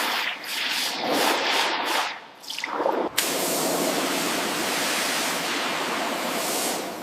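Water spraying at high pressure in short broken spurts, then from about three seconds in a steady spray hiss that starts suddenly and holds.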